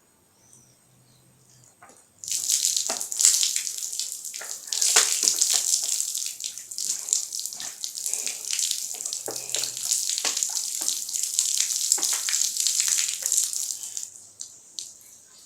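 Water poured out of a litre bottle, splashing steadily, starting about two seconds in and stopping near the end.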